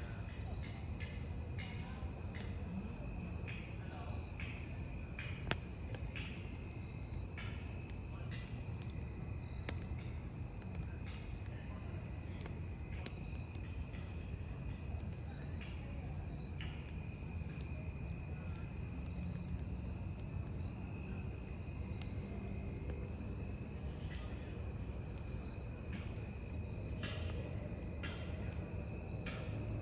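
Crickets trilling in a steady, high, unbroken tone over a wood campfire, whose crackling gives scattered small pops and clicks throughout.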